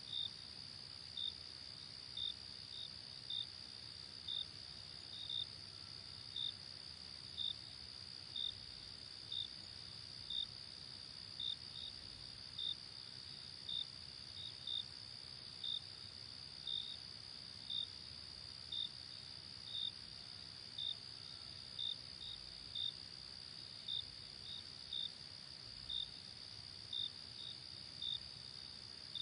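Night insect chorus of crickets: a continuous high trill with a separate cricket chirping about once a second, now and then twice in quick succession, over a faint low hiss.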